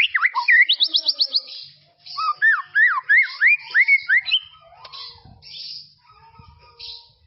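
White-rumped shama (murai batu) singing: fast runs of clear whistled notes, a brief pause about two seconds in, then a second whistled phrase, with fainter, broken notes in the second half.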